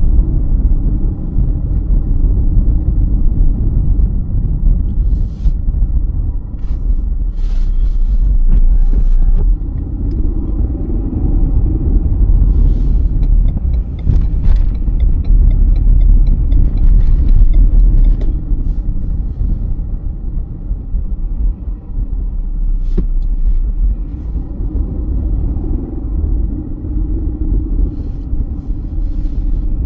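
Car driving on a snowy road: a steady low rumble of tyres and engine, with scattered short clicks and ticks over it.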